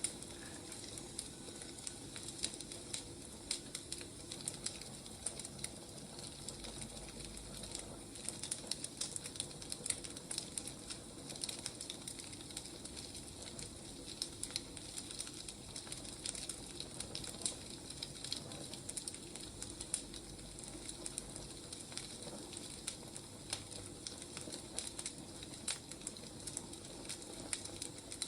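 Wood fire crackling: many irregular small crackles over a steady hiss.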